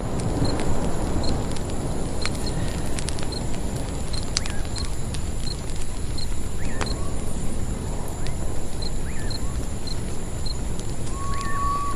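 Campfire crackling and hissing, with a faint high ticking repeating about twice a second in the background. Near the end a common potoo begins its song with a long whistled note, the first of a falling series.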